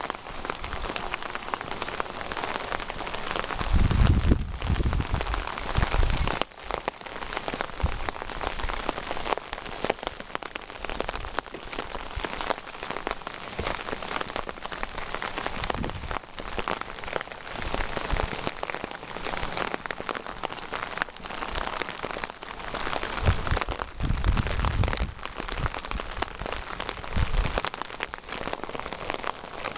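Steady rain falling, with many close drops ticking and pattering. Low rumbles come twice, about four seconds in and again near twenty-four seconds.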